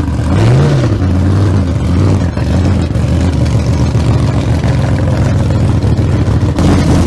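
A loud engine revs up once and drops back about half a second in, then idles with an even, pulsing rumble. The sound cuts off abruptly at the end.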